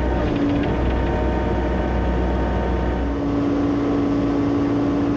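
John Deere excavator's diesel engine running steadily under work, with a steady whine that fades out briefly and comes back about three seconds in.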